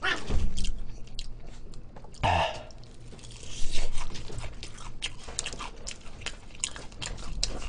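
Close-up crunching bites and chewing of crispy fried chicken (BBQ Golden Olive chicken), with irregular crackles from the crust and a few louder bites.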